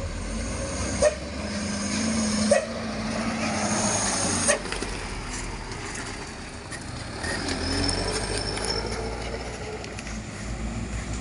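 Heavy truck engine running low and slow, with the body and load clanking sharply a few times and creaking as it works over a rough road.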